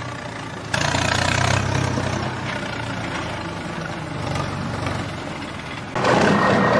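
Heavy vehicle engine running with a low, steady rumble, louder from about a second in and slowly easing off. Near the end a louder, brighter sound with a steady high tone takes over.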